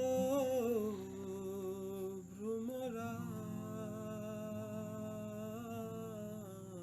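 A voice humming a slow melody in long held notes with a slight waver, the tune stepping down about a second in and rising again near three seconds.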